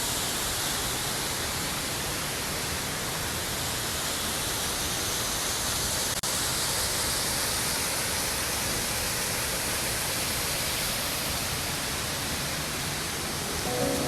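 Waterfall rushing as a steady, even roar of falling water, with a brief break about six seconds in.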